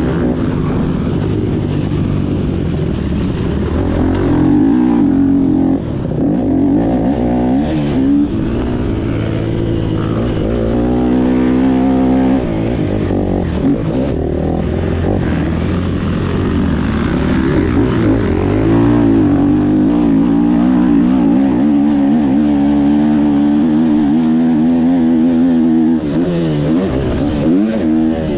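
Motocross bike engine running hard, its pitch repeatedly rising as it revs out and dropping back, with a few brief dips in loudness at shifts or throttle-offs.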